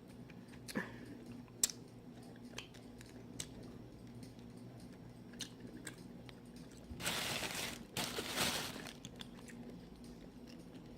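A person eating mussels close to the microphone: chewing with scattered small clicks, and two longer, louder noisy stretches about seven and eight seconds in.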